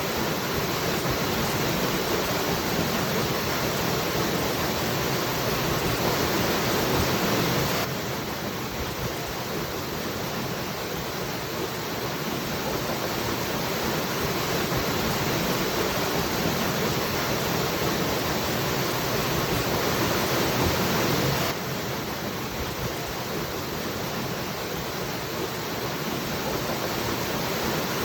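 Waterfall: a steady, even rush of falling water. The level drops suddenly a few decibels about eight seconds in and jumps back up about three quarters of the way through.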